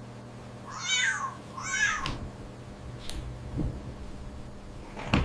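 Domestic cat meowing twice, two high calls that rise and fall, about a second apart. A short knock comes near the end.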